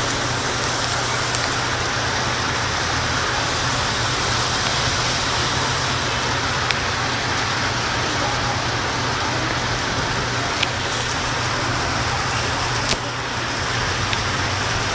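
Heavy rain falling as a dense, steady hiss, with a few sharp drip-like ticks on top and a steady low hum underneath.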